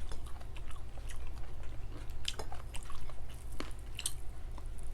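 Close-miked chewing and wet mouth sounds from someone eating, with a few scattered sharp clicks and smacks over a low steady hum.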